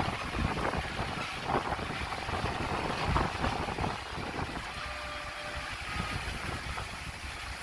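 Diesel engine of heavy earthmoving machinery running unevenly, a little quieter in the second half.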